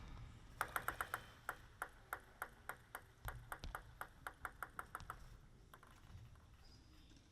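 Table tennis ball clicking off paddles and the table in a rally: a quick run of sharp ticks, then about four a second, stopping about five seconds in.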